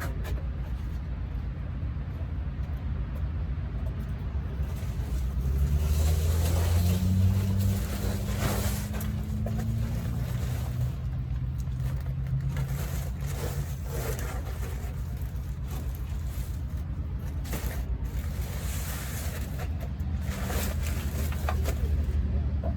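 Low engine rumble, its pitch rising and shifting for a few seconds about five seconds in and again near the end, with scattered clicks and knocks.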